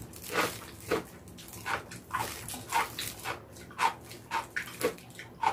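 Close-miked wet chewing and lip-smacking of sticky, gelatinous glazed pork feet, a short squelchy smack about twice a second.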